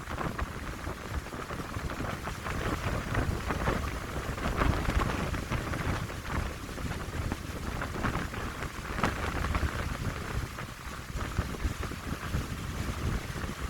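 Wind gusting through pine trees, a rushing hiss that swells and eases, with wind buffeting the microphone in a low rumble.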